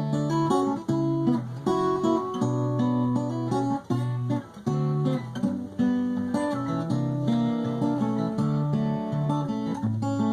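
Acoustic guitar playing an instrumental passage, plucked and strummed chords changing every second or so.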